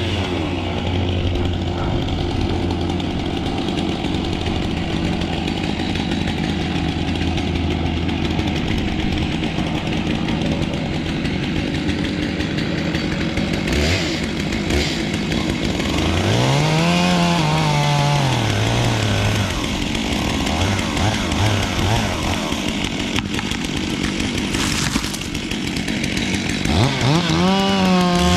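Chainsaw running and cutting wood. The engine climbs in pitch and drops back about halfway through, then revs up again near the end.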